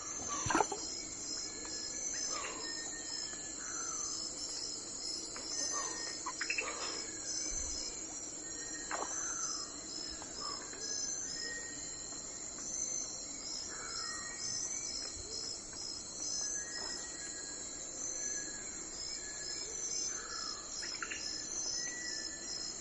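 Early-morning outdoor ambience: a steady, high-pitched insect chorus, pulsing evenly like crickets, with scattered short, falling bird calls over it.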